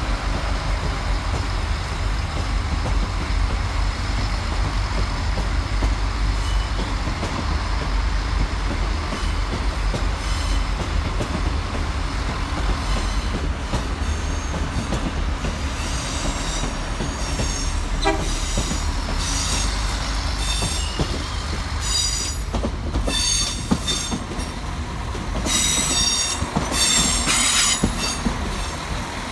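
Passenger trains rolling slowly over curved track and pointwork, with a steady low rumble throughout. From about halfway through, high-pitched wheel squeals come and go, loudest near the end as a diesel InterCity railcar passes close by.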